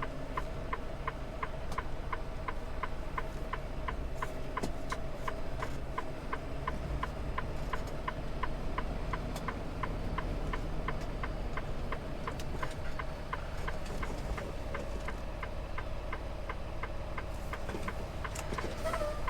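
Steady low rumble of a semi truck on the road, with an even, rapid ticking about two and a half times a second and a faint steady hum.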